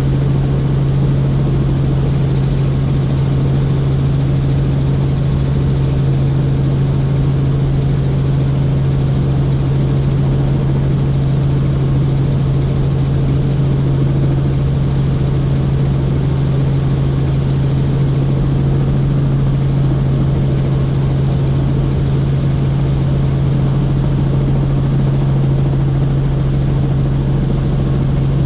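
Helicopter in steady cruise flight, heard from the cabin: a constant loud drone of rotor and turbine with a strong low hum that does not change.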